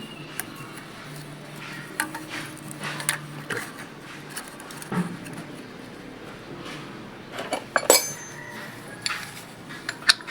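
Metal hand tools and feeler gauges clicking and clinking against the valve gear while the Ford 5000's valve clearances are being set, including one sharper ringing clink about eight seconds in.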